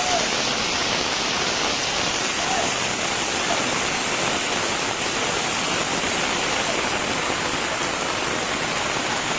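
Steady rushing noise of water from floods and heavy rain, which cuts off suddenly at the end.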